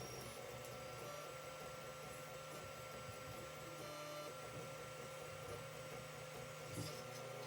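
Creality CR-10 3D printer running a print: faint steady motor whine over a low hum, its tones shifting in pitch now and then as the moves change, with a light click near the end.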